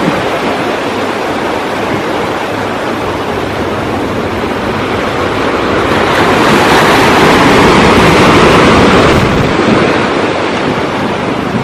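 Ocean surf with wind: a steady wash of waves that swells to its loudest about seven to nine seconds in, then eases back.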